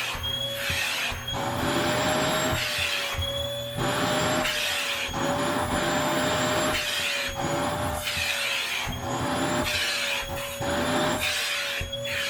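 Vacuum cleaner running with a steady motor whine while its nozzle is worked back and forth over a hair-covered blanket, the rush of suction swelling and fading about once a second with each stroke.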